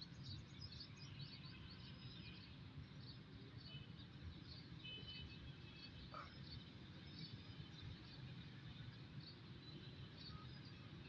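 Faint outdoor ambience: scattered short chirps of small birds over a low, steady background rumble.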